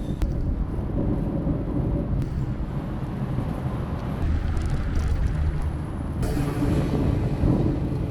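Steady low rumble and road noise of a moving vehicle, with more hiss from about six seconds in.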